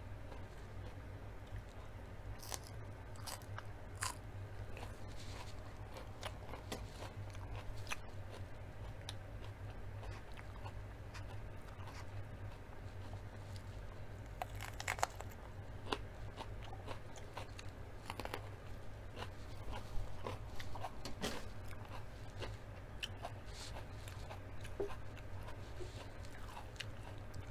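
Close-up mouth sounds of eating: chewing and crunching of stuffed potato skins and a raw mini sweet pepper, with many scattered short crunches and wet clicks, one crisp bite stronger about halfway through. A steady low hum runs underneath.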